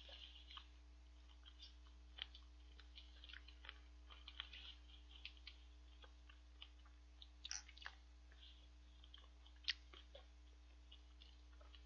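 Faint close-up chewing of spicy chicken feet, with many small mouth clicks scattered throughout and a few louder ones about seven and a half and ten seconds in. A faint steady electrical hum runs underneath.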